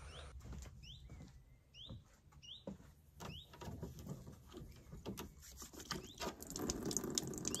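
A small bird calling with short rising chirps, repeated several times in the first few seconds, over scattered light clicks and knocks.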